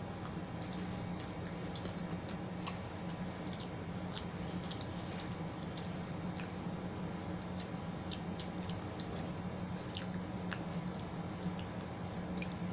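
Close-up chewing and wet mouth sounds, with irregular short smacking clicks, over a steady low hum.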